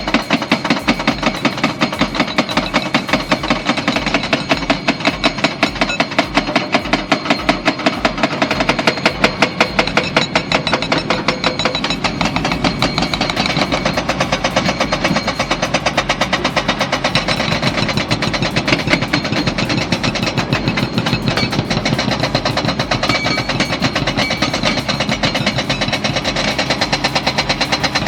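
Excavator-mounted hydraulic breaker hammering on old reinforced concrete, a steady run of rapid blows several a second over the excavator's running engine.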